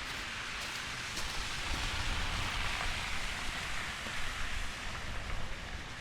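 A steady rushing hiss over a low rumble, swelling to its loudest two to three seconds in and easing off again.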